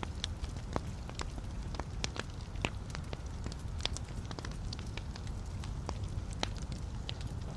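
Logs burning in a fireplace, crackling with irregular sharp pops and snaps over a steady low rumble of the flames.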